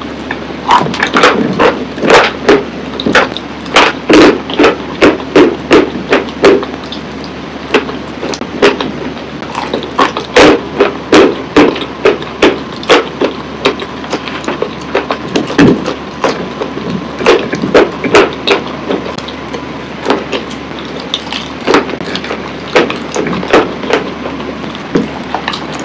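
Close-miked crunching of chalk pieces being chewed: sharp, irregular crunches, roughly two a second, thinning out at times.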